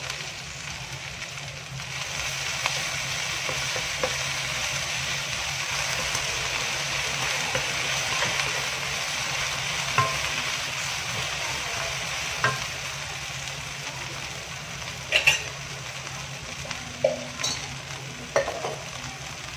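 Cut okra sizzling as it is stir-fried in a nonstick wok with a wooden spatula. The frying hiss is strongest in the first half. Sharp knocks and scrapes of the spatula against the pan come now and then, several of them in the last few seconds.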